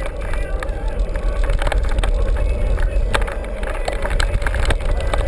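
Mountain bike ridden over rough ground: a steady low rumble of wind on the camera microphone, with frequent knocks and rattles from the bike.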